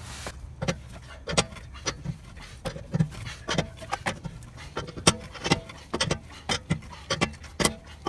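Wheel nuts being tightened with a wrench: a run of sharp, irregular clicks, one or two a second.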